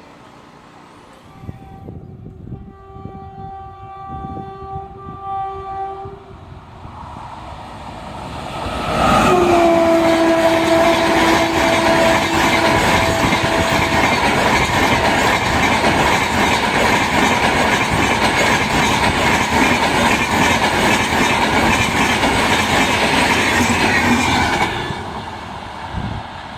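An Indian Railways ICF local train sounding its horn: one long blast, then a second, louder blast as the train reaches the microphone. It passes close at speed with rapid wheel clatter over the rail joints for about fifteen seconds, then fades near the end.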